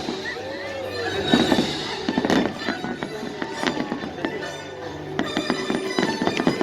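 Fireworks going off, with repeated sharp bangs and crackles throughout, over music.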